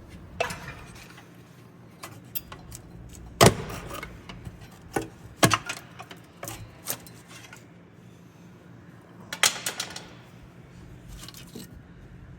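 Scattered metal clinks and knocks of tools or parts being handled, over a faint steady low hum. The loudest is a sharp strike about three and a half seconds in, with another strong knock a couple of seconds later and a quick run of clinks near the end.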